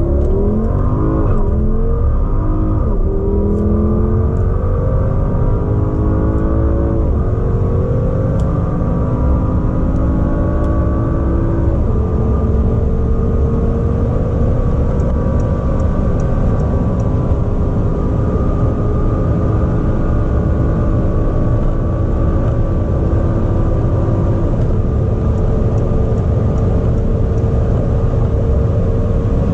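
A car engine accelerating hard through the gears. Its pitch climbs and falls back at each upshift: the shifts come quickly at first, then further apart, with long slow climbs in the higher gears.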